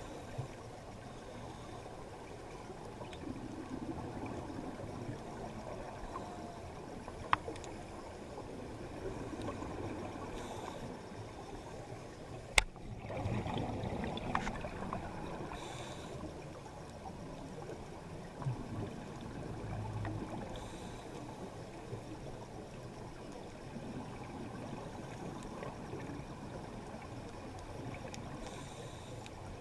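Steady muffled rushing of water with a few sharp clicks, the loudest about halfway through.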